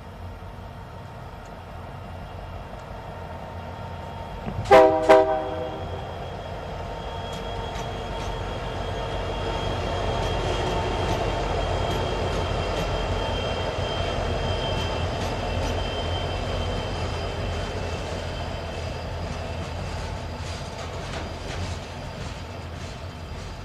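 Union Pacific freight train's locomotive horn giving two short, loud blasts about five seconds in. Then the diesel locomotives rumble past, louder and then fading, and the rail cars click over the rail joints near the end.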